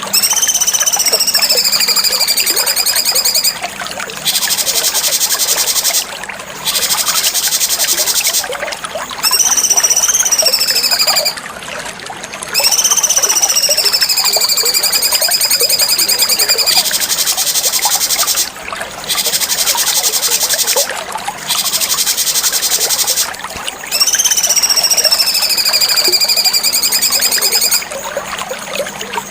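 Cucak cungkok song played as masteran: high, drawn-out notes of a few seconds each that slide down and level off, alternating with rapid buzzy trills, the phrases repeating with short gaps between them.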